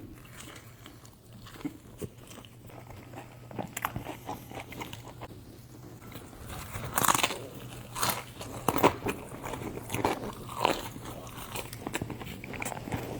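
Close-miked eating: a person biting into and chewing crunchy food, with several loud crunches in the second half over a faint steady hum.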